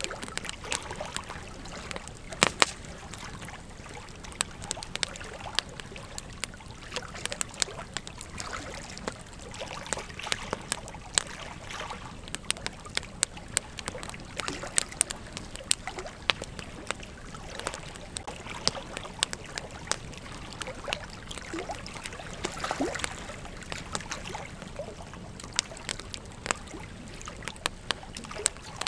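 Campfire burning, with dense irregular crackles and sharp pops over a low steady hiss; one pop about two and a half seconds in is the loudest.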